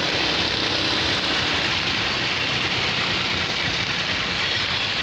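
Heavy rain falling, a steady, loud hiss.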